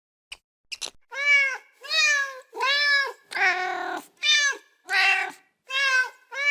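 Cat meowing over and over: about eight short meows in quick succession, each rising then falling in pitch, starting about a second in.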